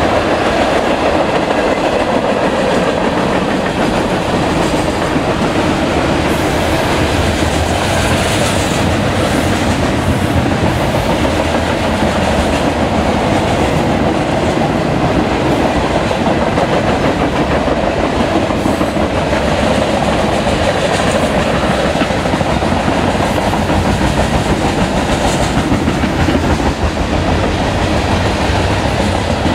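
Freight train cars (tank cars, lumber-loaded flatcars and boxcars) rolling past close by: a steady, loud rolling noise with the clickety-clack of steel wheels over the rail joints.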